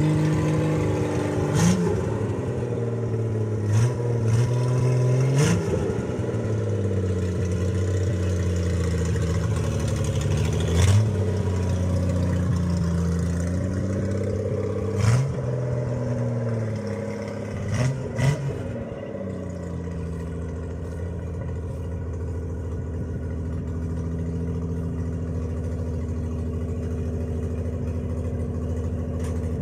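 Toyota Crown MS56 with a swapped-in Supra 4M straight-six engine revving up and down over and over while the car is driven on gravel, with several short sharp bursts among the revs. About two-thirds of the way through, the revving stops and the engine settles into a steady idle.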